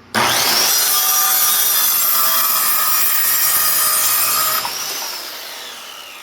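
Electric saw whining up to speed and cutting through a wooden 2x4 for about four and a half seconds. The cut ends and the blade spins down with a slowly falling whine.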